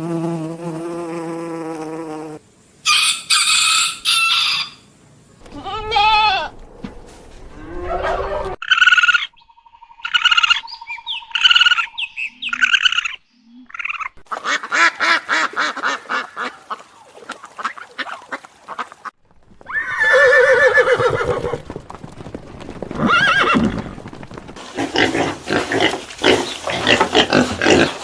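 A string of different farm animal calls, one clip after another. It opens with a steady pitched call of about two seconds, followed by short calls that bend in pitch and stretches of rapid, noisy calling.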